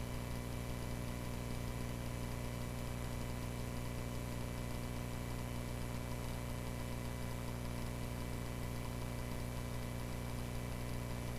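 Cessna 140A light aircraft's piston engine droning steadily at a constant power setting, with an even, unchanging hum.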